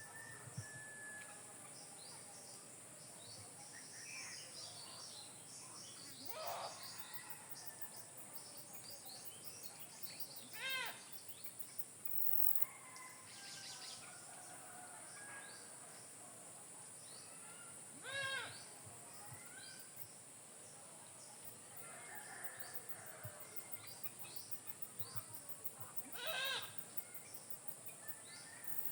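Rural outdoor ambience: birds chirping and calling over a steady high-pitched drone. A louder fowl-like call repeats three times, about eight seconds apart.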